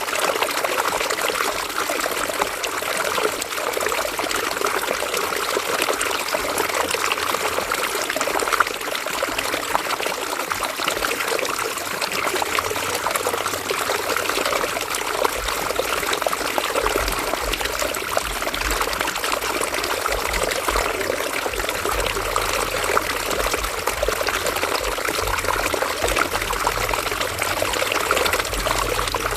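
River water running and trickling steadily over stones, with a faint low rumble coming in about halfway through.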